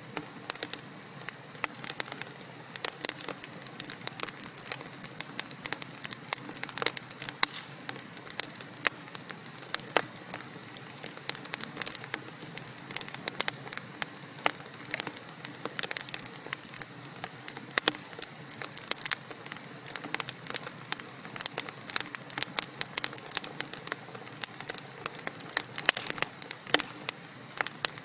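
Wood fire of burning logs in a fireplace crackling, with frequent sharp irregular pops and snaps over a soft steady hiss.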